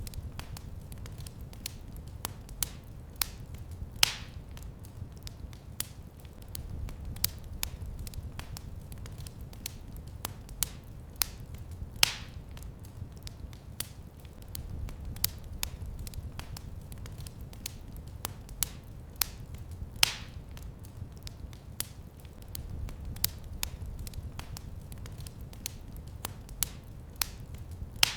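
Wood fire in a fireplace crackling, with many small snaps and a sharper pop about every eight seconds, over a low rumble of flames.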